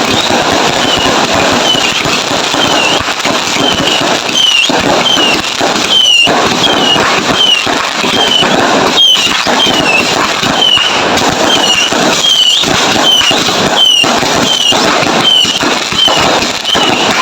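Fireworks going off in a dense, continuous barrage of crackling and sharp bangs. A short falling squeal repeats about twice a second over it.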